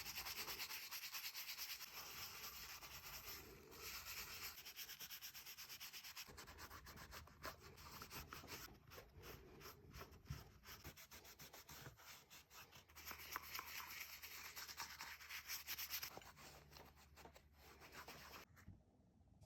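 Faint, quick rubbing strokes on the leather of a ballet flat as it is restored, coming in several bouts and stopping shortly before the end.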